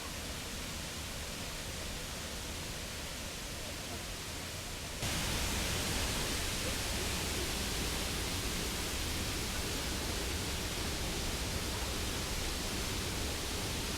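Waterfall rushing, a steady even noise that jumps louder about five seconds in.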